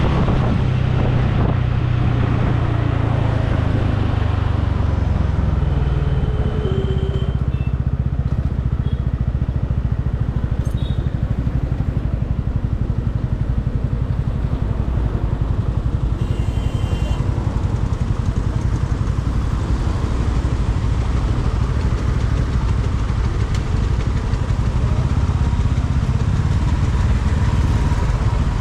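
Motorcycle engine running under way, with steady road noise. The engine's low note is strongest for the first few seconds, then eases. Brief high-pitched tones sound about six and sixteen seconds in.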